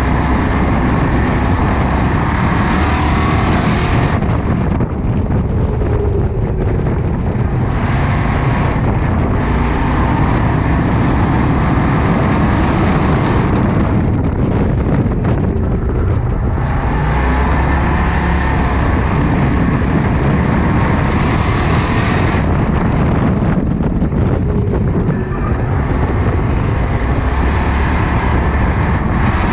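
Crown Victoria race car's V8 engine heard from inside the cockpit, pulling hard at full throttle down the straights and easing off into the turns. The surge and lull repeat about every eight to nine seconds.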